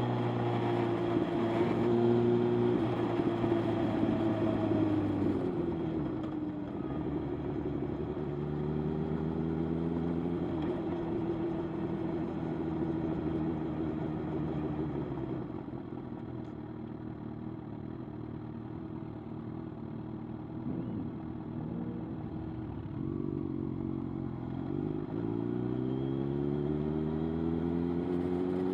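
Motorcycle engine running under way, its pitch falling and rising with throttle and gear changes. It drops early on, climbs again, dips once more late on and climbs near the end.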